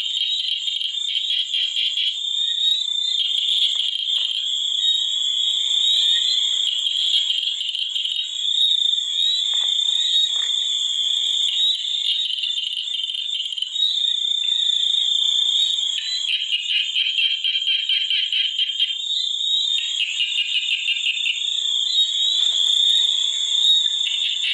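A chorus of frogs croaking in repeated trills, each lasting one to three seconds, over a steady high-pitched buzz.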